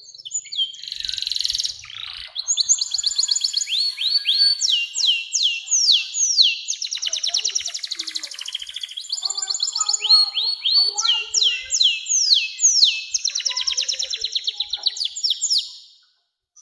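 Domestic canary singing one long unbroken song: fast trills and runs of notes that each sweep down in pitch, with a very rapid rolling trill in the middle. The song stops abruptly near the end.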